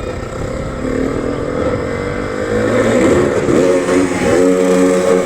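Motocross bike engine revving hard, its pitch climbing about halfway through and then held high and loud near the end as the bike accelerates.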